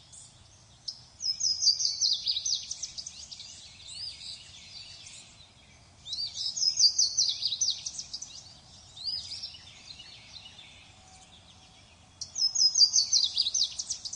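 A songbird singing: three loud phrases about five seconds apart, each a quick run of short notes falling in pitch over about two seconds, with softer rising calls in between.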